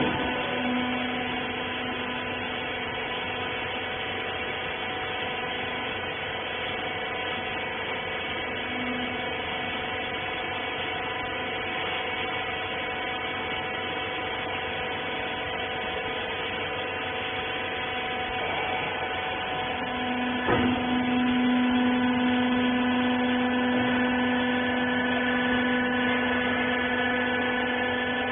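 Hydraulic baling press for scrap rags running, its pump motor giving a steady hum of several tones. A knock about twenty seconds in, after which a lower hum grows stronger.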